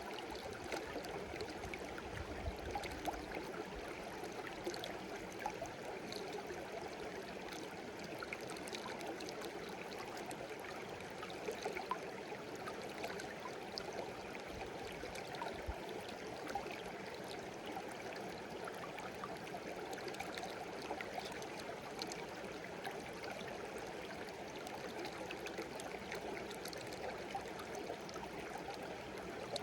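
A small stream babbling and gurgling steadily over stones, with a continuous rush of water flecked with tiny splashes.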